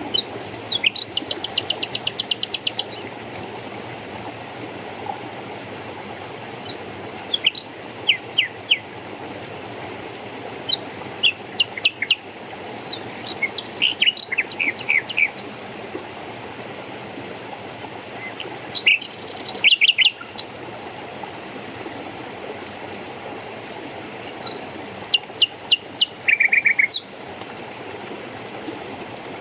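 Small birds chirping and calling in short clusters, with a fast rattling trill about a second in, over the steady rush of flowing stream water.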